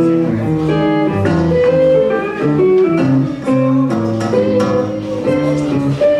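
Instrumental music: a plucked string instrument playing a quick run of picked notes.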